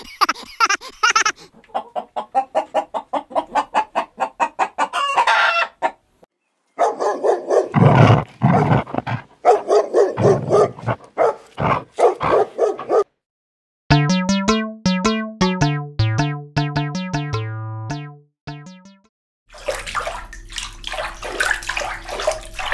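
A string of short animal calls cut one after another, with a few seconds of a simple stepped melody in the middle.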